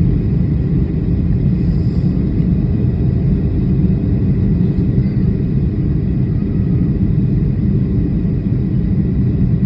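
Steady low rumble of an airliner in flight, heard from inside the cabin.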